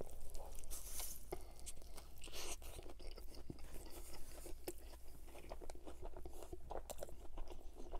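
Biting into and chewing a crispy fried chicken sandwich with bacon and onion rings, close to the microphone: a run of crackly crunches from the fried breading.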